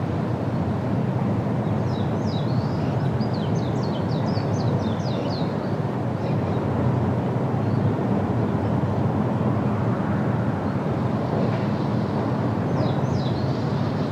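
Steady wind rushing through trees, with a bird giving a quick run of short falling high notes about two seconds in and a few more near the end.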